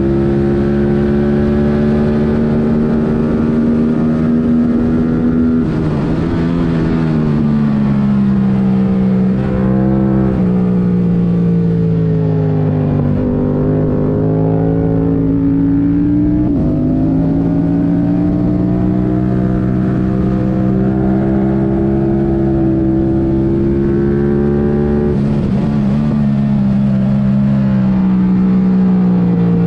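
2022 Yamaha R7's 689 cc parallel-twin, airbox removed and running a Mivv Delta Race exhaust, pulling hard around a track. The revs climb steadily in long pulls and drop sharply several times, about 6, 10, 13 and 16 seconds in, as the bike shifts and slows for corners, then climb again.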